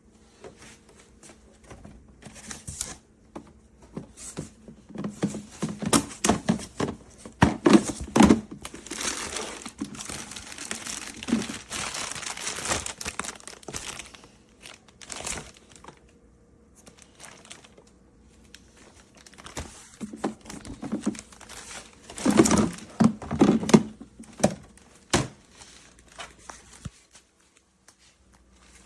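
Crinkling and rustling of handled material, like plastic or paper, in two irregular spells of sharp clicks and crackles with quieter pauses between.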